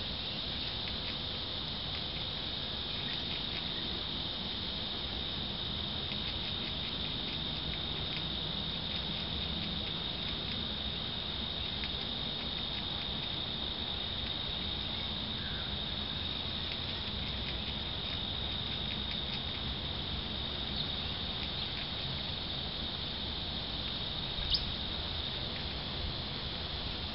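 A steady high-pitched insect chorus, with light ticking and pattering from birds feeding at a seed feeder, and a sharp click near the end.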